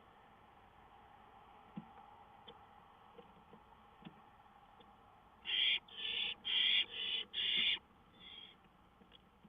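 Barn owl giving a rapid series of about five harsh, hissing screeches, each about half a second long, followed by a fainter one. A few faint clicks and scrapes come before them.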